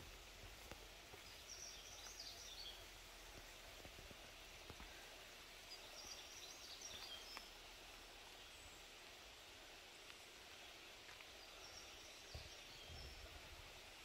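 Faint, quiet forest ambience with a bird singing three short high-pitched phrases a few seconds apart.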